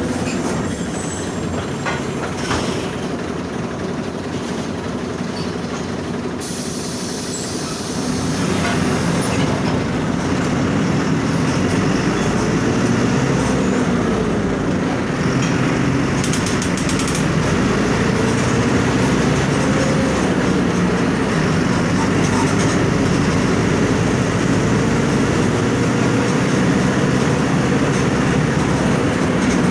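Mercedes-Benz OF 1722M bus's OM 924LA 4.8-litre four-cylinder diesel engine running while the bus is under way. It grows louder about eight seconds in, and its pitch rises and falls gently a few times.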